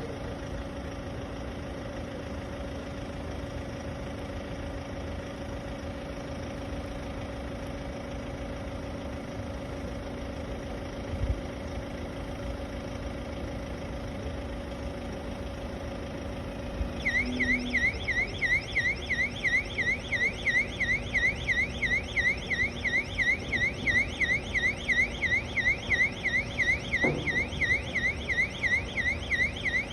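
Aerial work platform running with a steady motor hum; about halfway through its warning alarm starts, a warbling tone sweeping up and down about twice a second, over the running machine.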